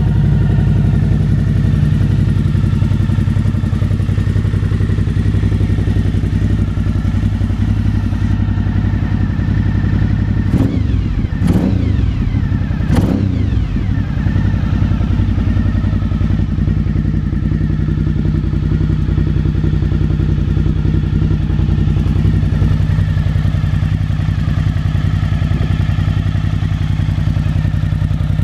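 Suzuki V-Strom 1000's V-twin engine running steadily through White Brothers aftermarket exhaust pipes. Around the middle, its note dips and rises a few times in quick succession.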